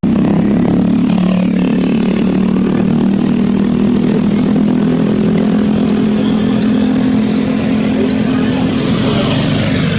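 Motor vehicle engine running steadily, with a constant low hum.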